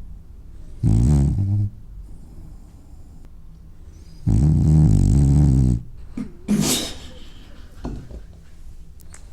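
French bulldog snoring in its sleep: two loud, fluttering snores, one about a second in and a longer one about four seconds in, then a few short, softer snorts and sniffing breaths.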